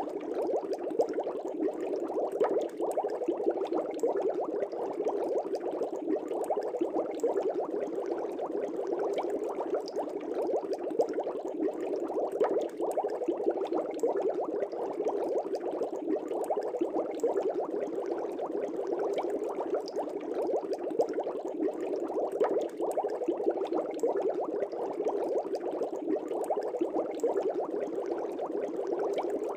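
Air bubbles streaming steadily through aquarium water, a dense continuous bubbling made of many small rapid pops.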